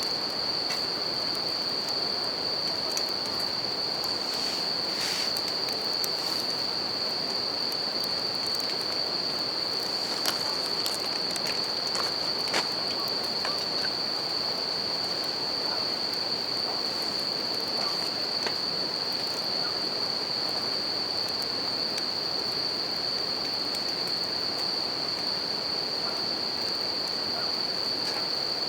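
Campfire crackling over the steady rush of a river, with bell crickets (suzumushi) singing a continuous high-pitched trill. A couple of sharper pops from the fire stand out about halfway through.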